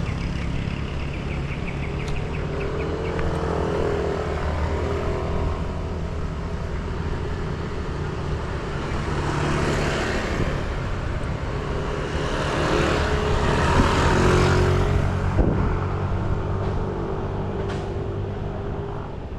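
Steady low motor-vehicle engine rumble, with two louder swelling rushes of noise near the middle.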